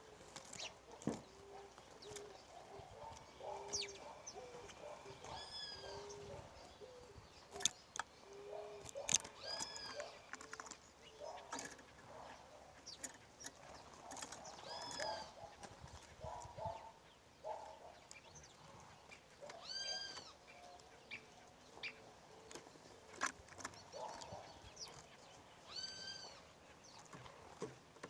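Birds calling. A call that rises and falls, with clear overtones, repeats about every four to six seconds. Short low notes sound in the first third, with scattered sharp clicks throughout.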